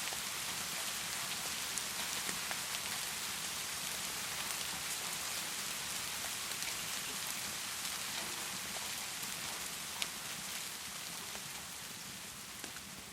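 Heavy rain falling steadily, an even hiss with scattered sharp drop ticks and one louder tick about ten seconds in. It grows slowly quieter over the last few seconds.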